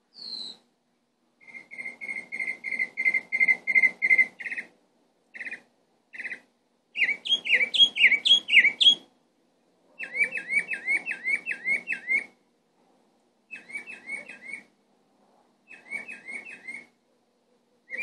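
A bird singing in a series of phrases. Each phrase is one whistled note repeated rapidly, several times a second for one to three seconds. After a short pause a different note follows, some sliding up and down and some falling.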